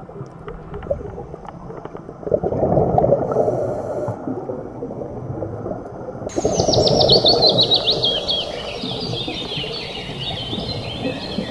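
Low, rough swells of sound, then, starting suddenly about halfway through, birds singing in quick falling trills over them.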